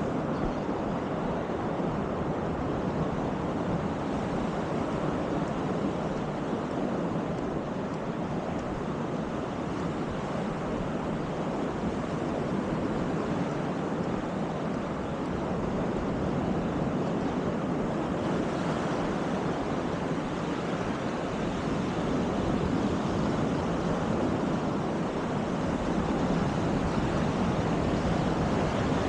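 Baltic Sea surf washing onto the beach in a continuous, steady rush, swelling slightly near the end, with wind buffeting the microphone underneath.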